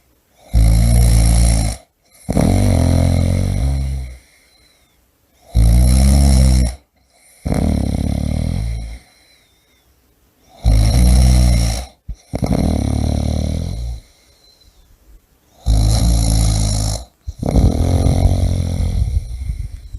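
A person snoring heavily. The snores come in pairs, one after another, across about four breaths, with short quiet pauses between the breaths.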